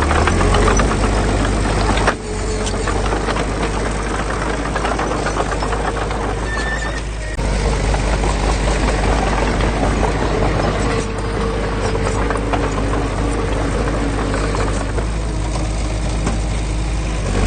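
Diesel engine of heavy earthmoving machinery running steadily under load, with a wavering engine tone. The sound breaks off abruptly and resumes about two seconds in and again about seven seconds in.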